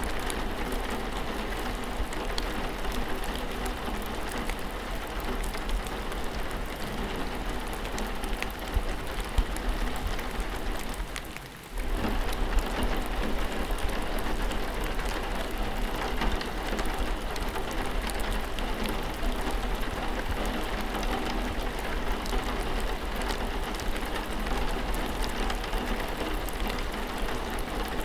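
Steady rainfall with many small drops pattering, over a low rumble. The sound briefly dips and comes straight back about eleven seconds in.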